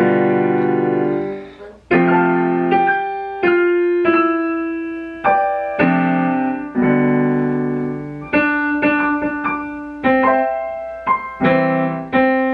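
Piano played four-hands by two players, one part pitched higher than the other, in a simple song of struck chords and melody notes. The notes ring out and fade, about one a second at first, then coming closer together in the second half.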